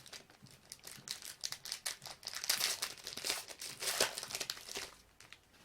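Crinkling and tearing of a trading card pack's wrapper as it is ripped open and handled, a dense crackle that peaks in the middle and fades out near the end.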